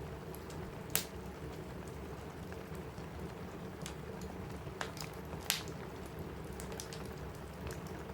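Steady rain on a cabin roof, with a crackling wood fire giving a few sharp pops: one about a second in and two close together around five seconds in.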